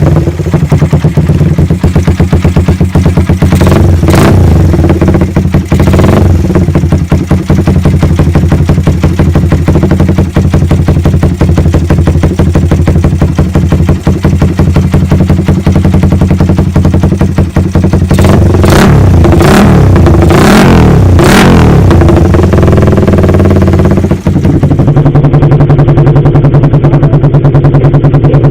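Suzuki Satria FU 150 single-cylinder four-stroke engine running through an aftermarket racing exhaust: a loud, steady idle with short throttle blips a few seconds in and a quick run of about four blips past the middle.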